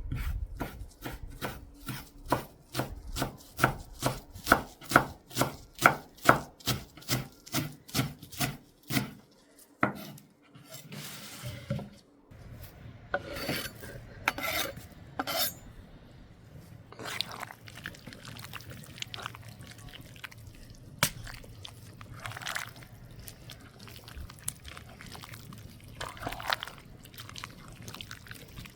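Knife chopping food on a cutting board: quick, even strokes about three a second for the first ten seconds, then a pause and scattered scrapes and knocks.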